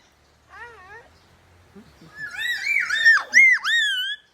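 A bird calling. A faint wavering call comes about half a second in, then a louder run of wavering, swooping calls fills the second half.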